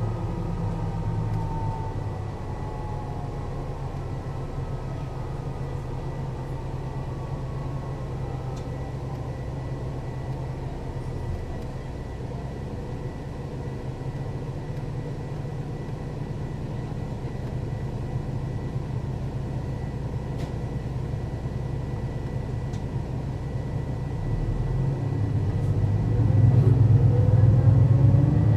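Mercedes-Benz O 530 Citaro city bus's diesel engine and ZF gearbox running: a whine falls away in the first few seconds as the bus slows, the engine runs steadily for most of the stretch, then grows louder with a rising gear whine as the bus pulls away near the end.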